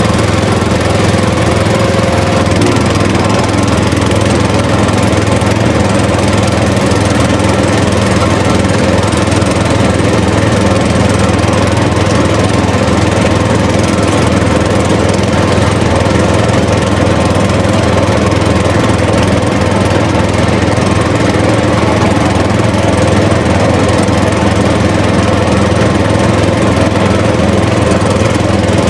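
A motor running steadily at an even speed, with a constant engine-like hum and no change in pace.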